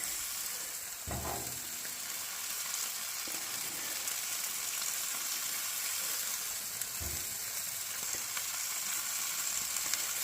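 Glazed steaks sizzling on a hot grill grate, a steady crackling hiss. Two soft low knocks come about a second in and about seven seconds in.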